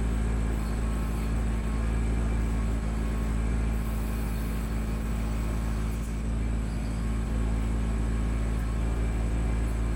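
Kubota B2650 tractor's three-cylinder diesel engine running at a steady speed.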